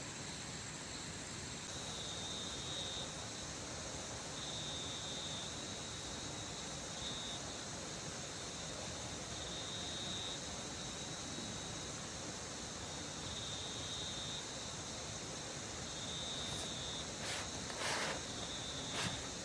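Steady rain hiss in the forest, with an insect calling in repeated high, thin bursts of about a second each. A few sharp knocks or clicks sound near the end.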